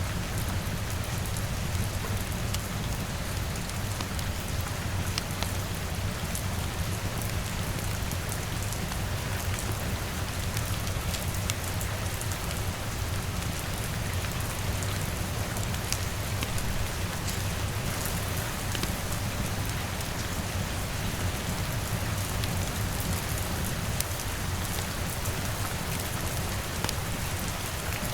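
Steady rain falling, with a constant low rumble beneath it and scattered sharp little ticks throughout.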